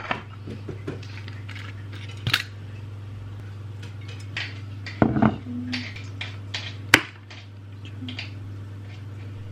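Kitchen clatter: dishes and cutlery clinking and knocking in a string of sharp, irregular clinks, the loudest about seven seconds in, over a steady low hum.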